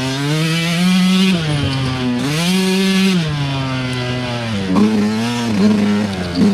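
Dirt bike engine running under throttle on a trail. Its pitch rises and holds in two longer pulls in the first half, then goes up and down in quick short blips of the throttle near the end.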